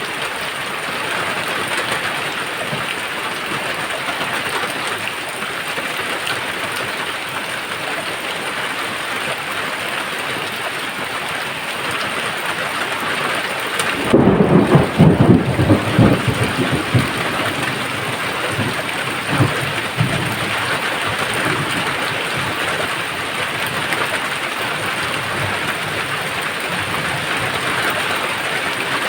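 Steady rain with a thunderclap about halfway through that rumbles on for a few seconds, followed by a smaller rumble of thunder.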